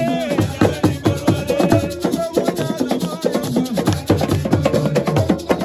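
Live assiko music: a fast, dense rhythm of hand drums with shaker rattles.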